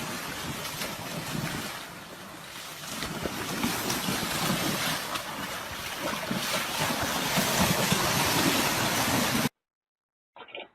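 Steady wind and water noise, with wind rushing over the microphone. It cuts off suddenly about nine and a half seconds in.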